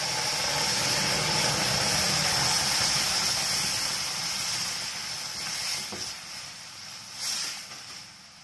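Ground tomato purée hitting hot mustard oil and spices in a steel kadhai, sizzling and hissing, the sizzle dying down over the last few seconds as it is stirred. A ladle knocks against the pan briefly near the end.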